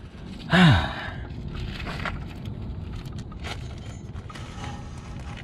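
A short falling grunt about half a second in, then scattered small clicks and stones crunching as he shifts about on rocks beside the mower.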